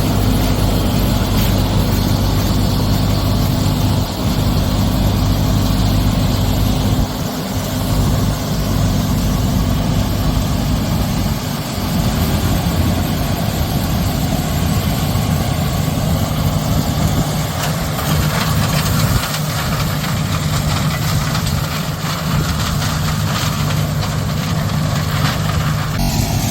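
The heavy diesel engine of corn-harvest machinery runs steadily with a low drone. Its note shifts lower about halfway through.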